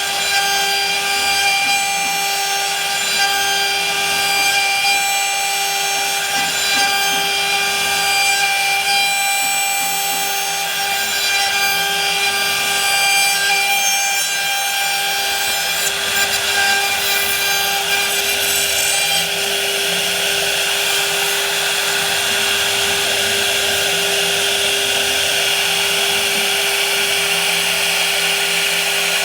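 Electric power tool running at a steady speed with a constant whine, working wood; its tone changes slightly about two-thirds of the way through.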